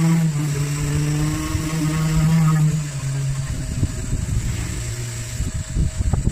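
A motor running with a steady hum that steps down in pitch a couple of times, followed by low rumbling and a few knocks near the end.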